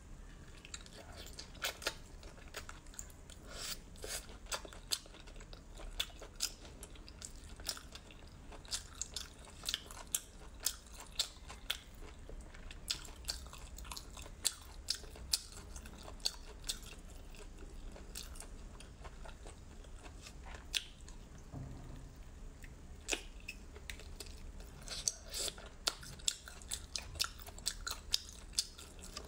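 Close-miked eating sounds of a person chewing cooked shellfish, with many short, sharp wet clicks and crunches scattered irregularly throughout.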